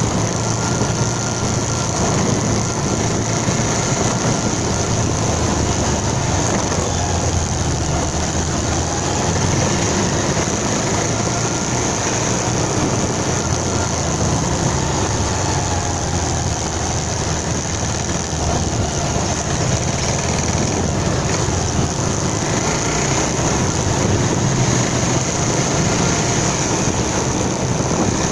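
Motorcycle engine running on the move, a steady low hum under a constant rush of wind and road noise.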